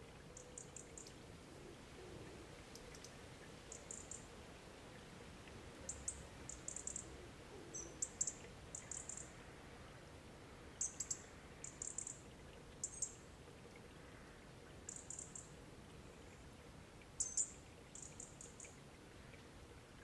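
A small bird calling: short, high chirps in quick little clusters of three or four notes, repeated every second or two, over faint, steady outdoor background hiss.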